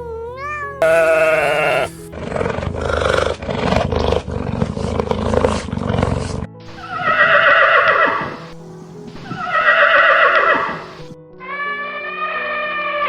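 A string of loud farm animal calls over background music. First a short pitched cry, then a rough, noisy call of about four seconds, then two long wavering calls and a steadier pitched call near the end.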